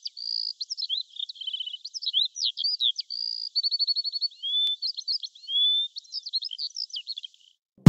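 A songbird singing a fast, varied song of chirps, slurred whistles and short rapid trills, falling silent shortly before the end.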